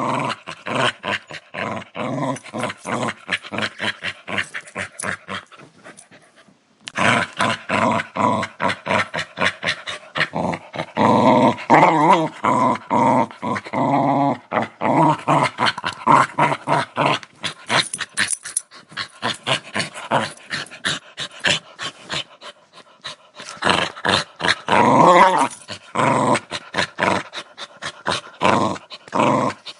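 A dog growling in a fast, unbroken train of throaty pulses. It drops away briefly about six seconds in, then comes back louder, with stronger pitched stretches around twelve and twenty-five seconds in.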